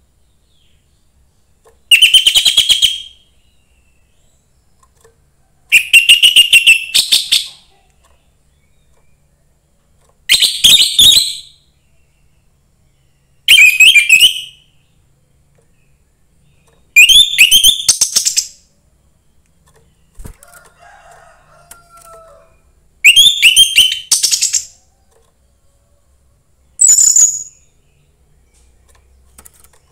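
A young orange-headed thrush singing. It gives seven loud, short phrases of rapid high notes, spaced a few seconds apart.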